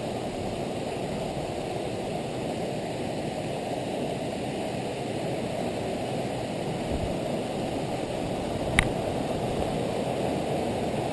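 A waterfall and its stream rushing steadily, with one sharp knock about nine seconds in.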